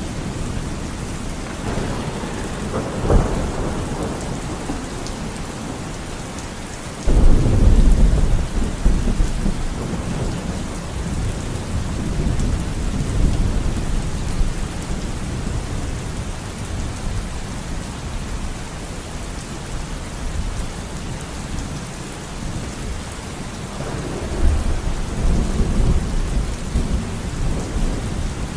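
Steady rain with rolling thunder: a rumble a couple of seconds in, a sudden loud thunderclap about seven seconds in that rolls on for several seconds, and another rumble near the end.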